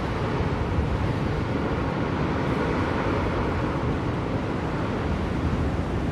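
Steady blizzard wind, an even low rushing noise.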